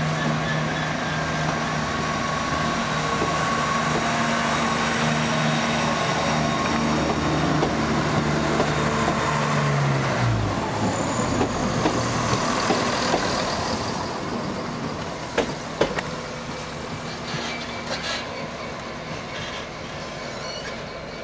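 Diesel train's engines running with a steady hum that drops away about ten seconds in, followed by rolling rail noise, two sharp clicks and a slow fade.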